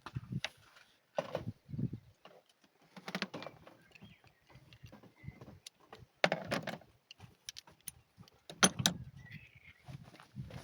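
Irregular knocks, clicks and light metallic clinks of tools and parts being handled during spark-plug work on the car's engine, with several duller thuds about a second, three, six and nine seconds in.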